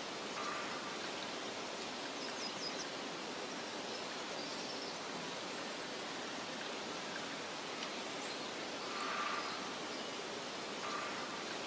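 Steady soft hiss of outdoor meadow ambience, like wind through grass, with a few faint short bird calls and high chirps scattered through it.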